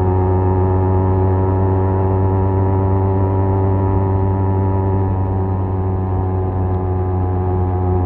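Kawasaki Z250's parallel-twin engine through a SeaPro aftermarket muffler, running at a steady cruising speed as a steady exhaust drone, easing off slightly for a moment in the middle.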